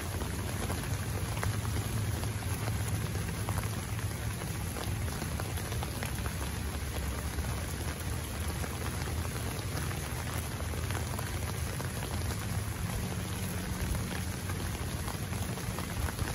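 Heavy rain falling on wet pavement: a steady hiss dotted with many small sharp drop ticks, over a low steady rumble.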